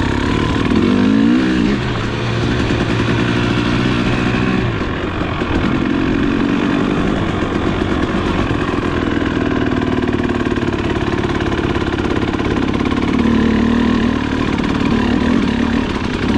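Trail motorcycle engine running under load, its pitch rising and falling with the throttle: revving up about a second in, easing off around five seconds, and pulling up again near the end.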